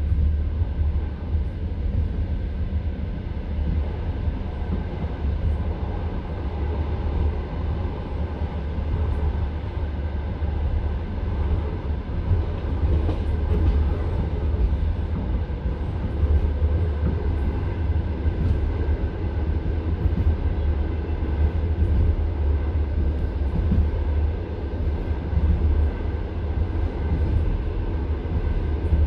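Passenger train carriage running along the track, heard from inside the car: a steady low rumble of wheels on the rails.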